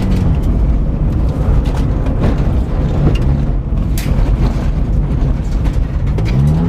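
Saturn L300's 3-litre V6 engine heard from inside the stripped car on a rally run. The revs drop at the start and stay low and rough under heavy road noise with sharp clicks and knocks throughout, then climb again near the end.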